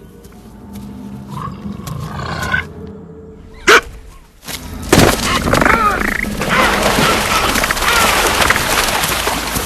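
Jaguar attack on capybaras: a low rumble builds, then a single sharp, very loud hit, followed by a loud, chaotic commotion with wavering animal cries.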